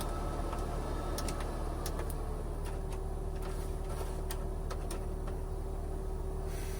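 A steady mechanical hum with a held tone that drops slightly in pitch about two seconds in, with light, irregular clicks over it.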